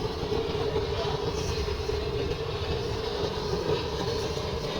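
Steady mechanical hum with a constant mid-pitched tone over a low rumble, running evenly with no change.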